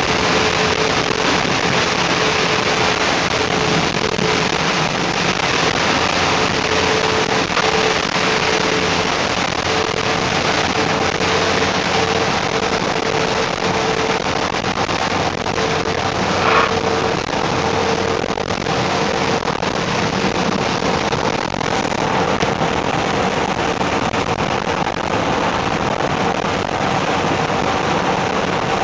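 Steady heavy rain during a thunderstorm, with a constant mid-pitched hum underneath and a single brief click about sixteen seconds in.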